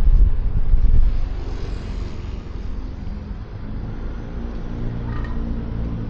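Wind buffeting the helmet-mounted microphone for about the first second, then dropping away to leave the scooter's single-cylinder engine running steadily at low speed as it slows.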